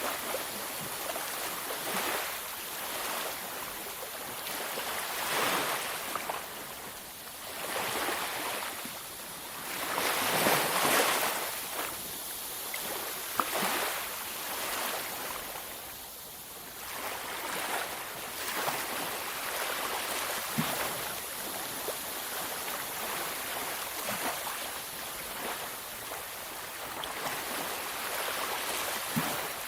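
Waves breaking and washing onto a beach, surging and ebbing every few seconds, with one larger wave about ten seconds in.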